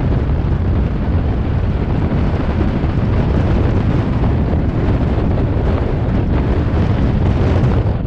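Loud, steady rumble of wind buffeting the microphone.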